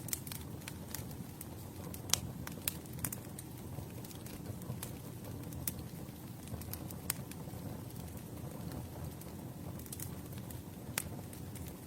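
Campfire burning: a low, steady rush of flame under irregular sharp crackles and pops of burning wood, with one louder pop about two seconds in.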